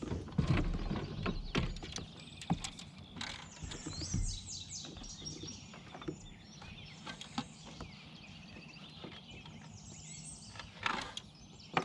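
Songbirds chirping in repeated quick, falling phrases, with scattered knocks and clicks from handling gear and a fish in a kayak, heaviest in the first few seconds and again near the end.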